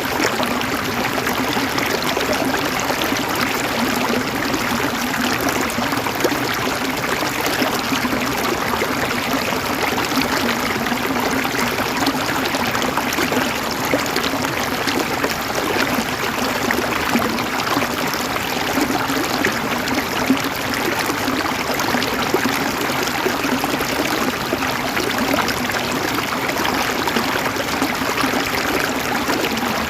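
River water flowing and gurgling over stones, a steady dense rush with fine splashing detail.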